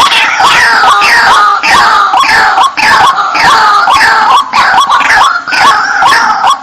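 White-breasted waterhen (ruak-ruak) calling loudly in a fast, unbroken series of harsh repeated notes, two to three a second, with higher falling notes laid over the lower hooked ones. It is a recorded night lure call used to draw waterhens in for trapping.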